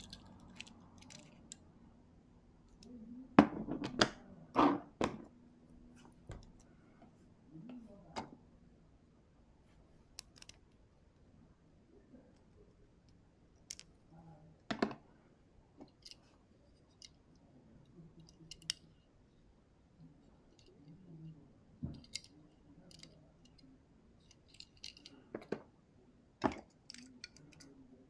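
Irregular clicks and knocks of small hard toy parts being handled, with a cluster of louder knocks about three to five seconds in.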